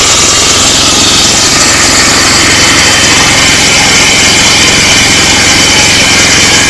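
MEP-016D 3 kW military generator set, converted to a Yanmar diesel engine, running steadily at constant speed.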